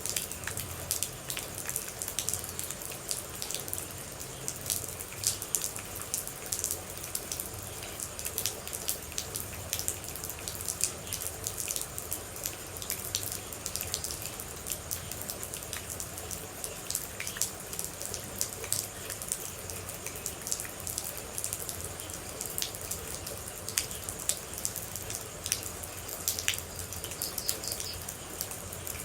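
Rain with water droplets dripping: many small, sharp, irregular drips over a steady hiss.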